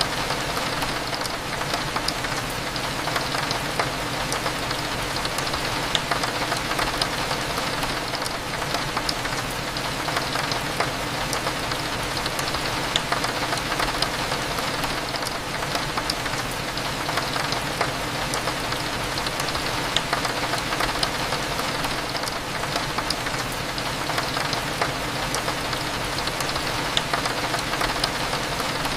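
Steady rain falling, with scattered raindrops ticking sharply against a window, over a low steady hum.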